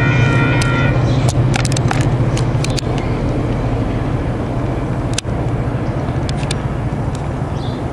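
Coaster commuter train rolling past and pulling away, a steady low rumble that slowly fades. A high squeal stops about a second in, and sharp clicks come scattered throughout.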